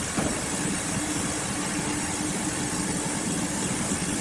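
Sawmill machinery running steadily with an engine-like hum, and one short knock just after the start.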